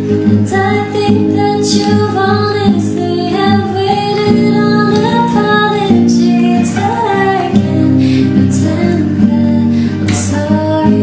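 A woman singing a melody over acoustic guitar.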